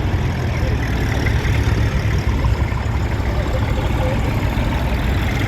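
Tractor engine running steadily with a deep, even rumble.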